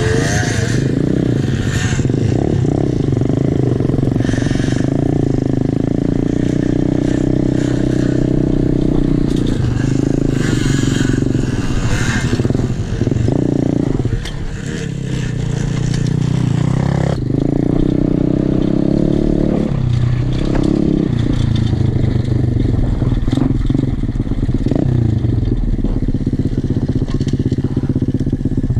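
Single-cylinder pit bike engine running under way, its pitch rising and falling with the throttle, with a short drop about halfway through. Scraping and rattling from the bike over rough ground.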